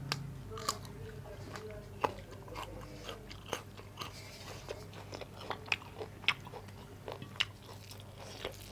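Close-up eating sounds: a person chewing and biting through a rice, daal and salad meal, with sharp irregular mouth clicks and crunches every fraction of a second over a faint steady hum.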